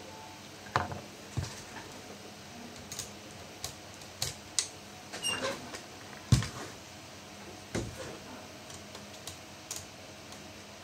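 Irregular clicks and taps of plastic and small metal parts being handled during laptop disassembly, with one louder knock about six seconds in.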